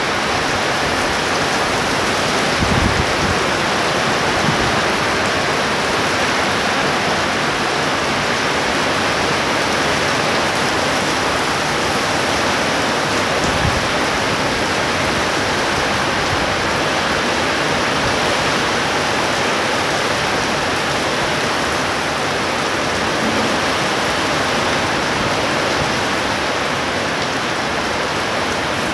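Heavy rain pouring down steadily in a thunderstorm, a dense even hiss, with a couple of brief low thumps about three seconds in and near the middle.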